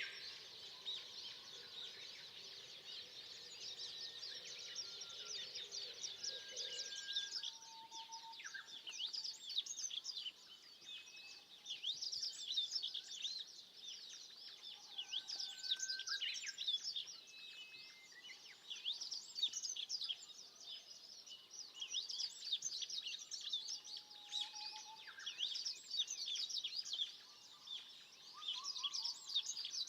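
Chorus of forest birds singing, a dense stream of quick, high-pitched chirps and trills with occasional short, lower whistled notes from other birds.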